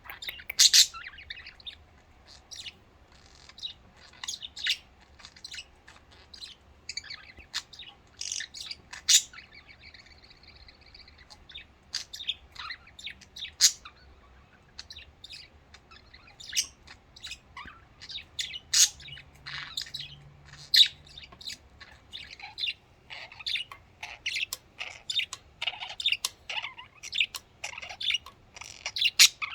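Pet budgerigars chirping and chattering: a stream of short, sharp high chirps that grows busier in the last third, with one brief held whistle-like note in the middle.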